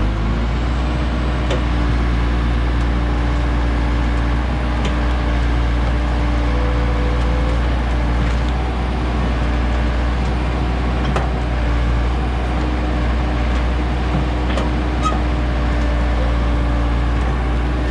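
An engine running steadily at one speed: a constant low drone with a few faint clicks over it.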